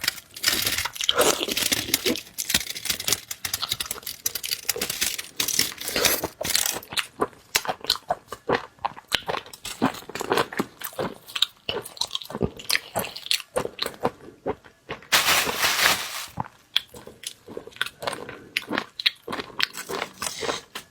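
Close-miked chewing and biting of marinated seafood, with wet, irregular crunches throughout. A louder, denser crunch comes about fifteen seconds in.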